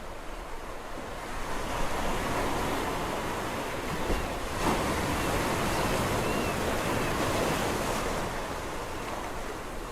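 Sea waves breaking and washing onto the shore: the surf swells up about a second and a half in, is loudest through the middle, then ebbs away near the end.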